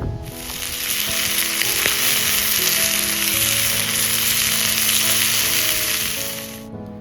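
Food sizzling and frying in a hot pan, a dense steady hiss that cuts off abruptly near the end.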